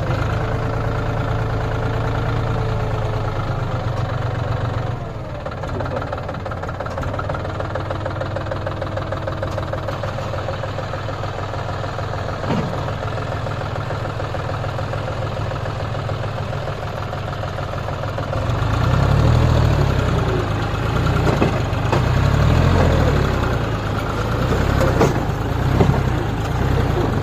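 Heavy diesel tractor engine running. Its pitch drops about five seconds in, and from about eighteen seconds in it runs louder with an uneven low throb.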